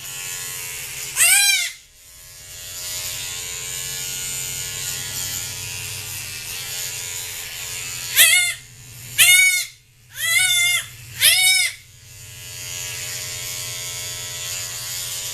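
A young goat kid bleating five times: once about a second in, then four times about a second apart near the end. Each call rises and falls in pitch. Under the calls, small battery-powered hair clippers run with a steady buzz, shaving the hair away from the kid's horn buds; their batteries are running low.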